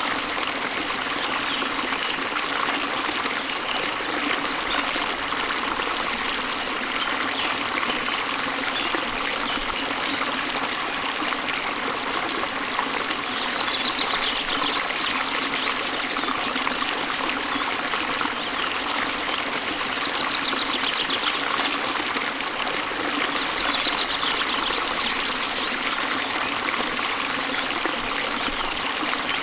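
Steady rush of a waterfall, with birds trilling now and then from about halfway through.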